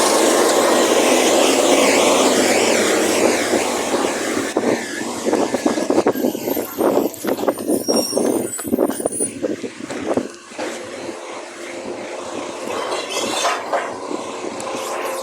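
Recycling garbage truck working a bin lift. It runs loud and steady for the first few seconds, then a fast clatter of recyclables tips into the hopper about five seconds in. After that the truck settles to a quieter steady run.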